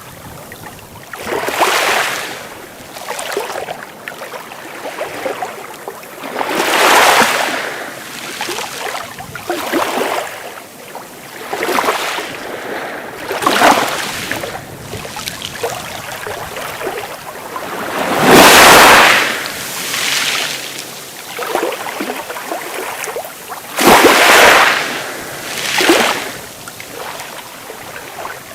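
Sea waves breaking in a string of short swells of surf, about one every two seconds, with the loudest two about two-thirds of the way through and again soon after.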